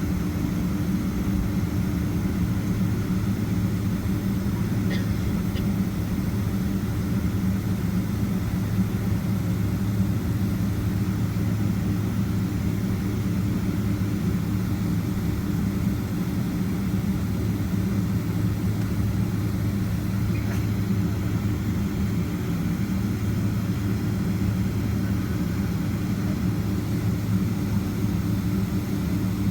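Steady cabin hum of a Boeing 767-300ER heard from a window seat inside the cabin: the engines running at an unchanging setting, a low drone over rushing noise, with a couple of faint ticks.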